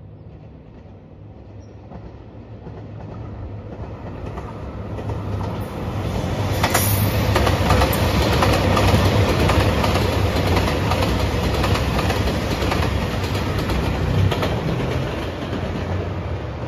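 JR Shikoku 2700 series diesel limited express train passing at speed, its diesel engines running and its wheels clattering over the rail joints. It grows louder over the first several seconds, is loudest about halfway through, then slowly fades.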